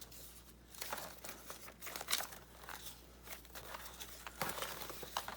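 Paper rustling and crinkling in irregular short bursts as pieces of paper ephemera are handled and sorted through.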